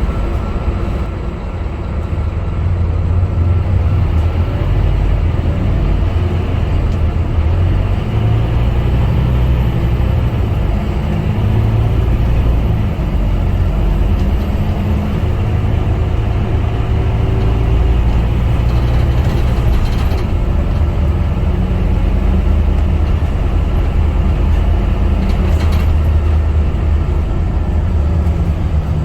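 Scania K250UB bus's five-cylinder diesel engine running on the move, its drone shifting up and down with speed. A faint high whine rises and falls between about eight and fifteen seconds in.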